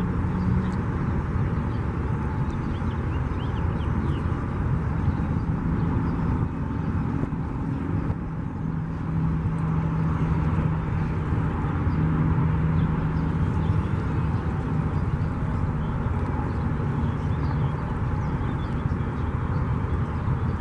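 Boat motor running steadily, with a low hum that fades in and out.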